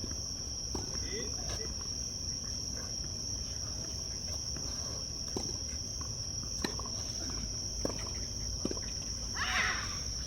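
Summer insects buzzing steadily on one high pitch, with scattered sharp knocks of a tennis ball being struck and bouncing on the court, and a brief scuff near the end.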